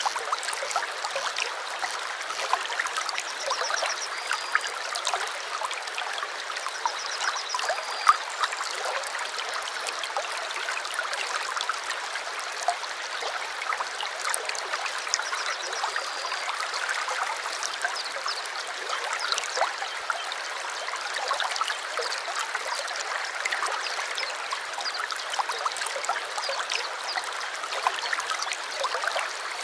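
A stream babbling and trickling steadily. A bird gives short high chirps twice in the first eight seconds or so.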